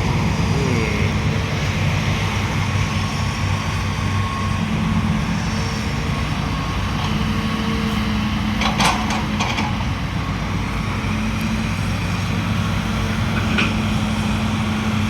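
Heavy diesel engines running steadily at a low, even drone, with a short burst of clatter about nine seconds in.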